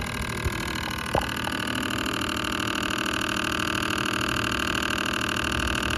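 Fan motor of an LG side-by-side refrigerator running with a steady whirring whine, the noise fault of its fan motor. A couple of light clicks come in the first second or so, after which the whine settles a little louder.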